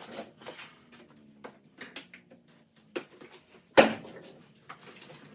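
Soft background music, with scattered light clicks and knocks and one louder thump a little under four seconds in.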